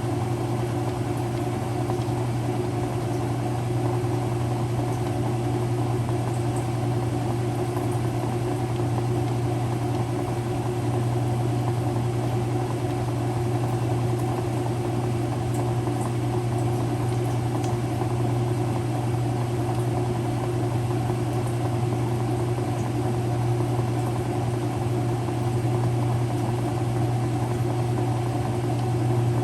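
Early-2000s Whirlpool direct drive washer running with a steady, even hum and no change in pitch or rhythm.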